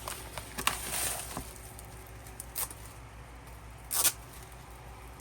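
Hands handling an album's paper and cardboard packaging and contents: a few short rustles and scrapes, with a louder brief rustle about four seconds in.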